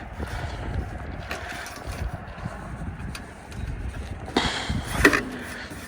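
Wind buffeting the microphone as a steady low rumble, with two short scuffing sounds near the end.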